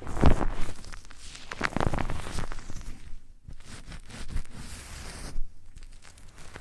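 Close-miked ASMR trigger sounds: irregular rustling and scraping strokes, strongest in the first couple of seconds, briefly pausing about halfway, then softer.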